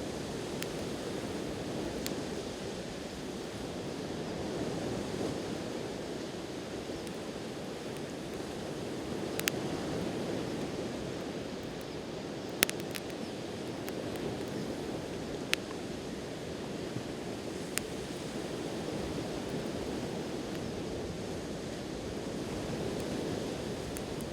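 Sea waves washing steadily on the shore, with a wood campfire giving a few sharp, isolated crackles and pops; the loudest pop comes about halfway through.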